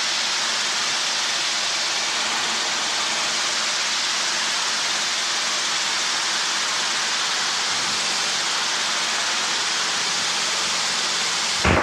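Steady hiss on the helicopter's headset audio feed, with a faint low hum underneath; a short click-like burst near the end.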